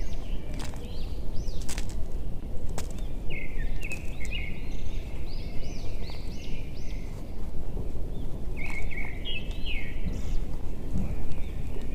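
Birds chirping in repeated short calls, bunched in groups, over a steady low outdoor rumble, with a few sharp clicks in the first three seconds.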